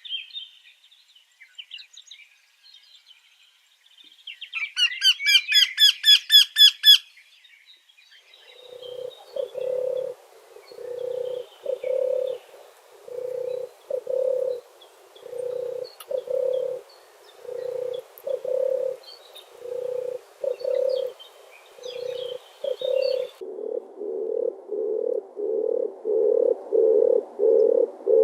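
Cage birds calling: scattered faint chirps, then a loud rapid run of high chirps, followed by a low cooing call repeated about once a second that comes quicker near the end.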